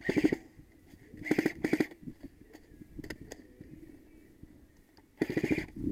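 Airsoft gun firing short full-auto bursts of rapid clicks: one at the start, two quick bursts about a second and a half in, and another near the end.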